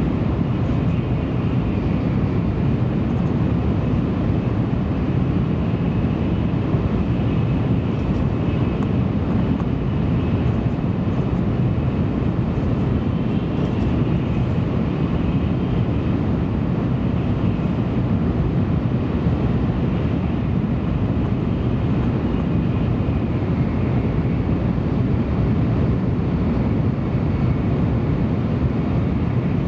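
Tokaido Shinkansen train running at speed, heard from inside the passenger car: a steady deep rumble of wheels and rushing air with a faint higher hum above it.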